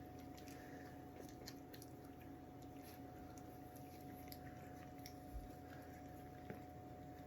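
Coton de Tulear puppies faintly lapping and smacking at a dish of soft gruel: scattered small wet clicks over a steady low hum.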